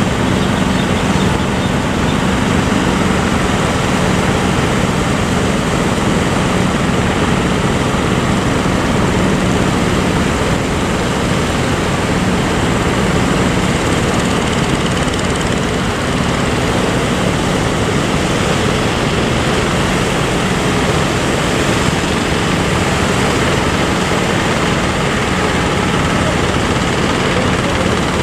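An engine running steadily with a constant low hum, over a loud rushing of wind and sea.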